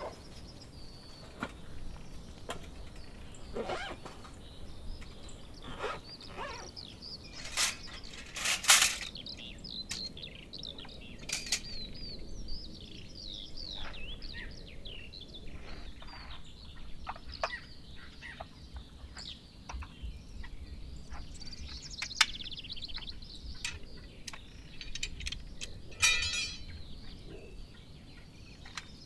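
Small birds chirping and singing repeatedly, high-pitched, with scattered sharp clicks and knocks mixed in, the loudest a little over a third of the way through and a quick rattling series near the end.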